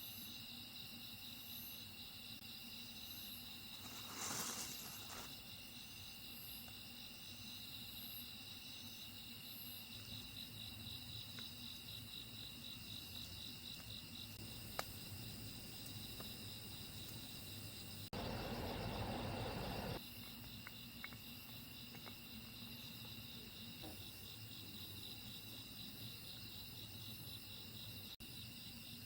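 Chorus of summer insects: several high, steady trills with a fast pulsing texture. A brief rush of noise about four seconds in, and a louder two-second rush of noise about eighteen seconds in.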